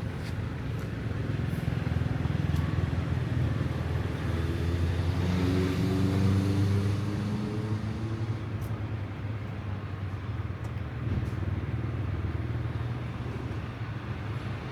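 Engine of a passing motor vehicle: a steady low hum, rising in pitch and loudest around the middle as it speeds up and goes by, then fading.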